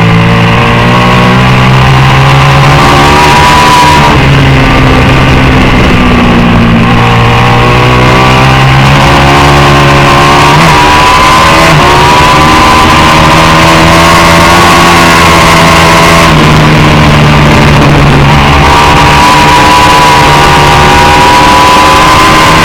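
Racing motorcycle engine at full race pace, very loud and heavily overloaded. The revs climb and drop repeatedly as it works through the gears.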